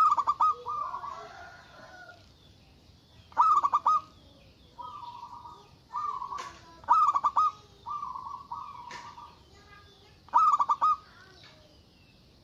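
Zebra dove (perkutut) cooing: four loud bursts of rapid, stuttering coos about three to four seconds apart, with softer, steadier coos in between.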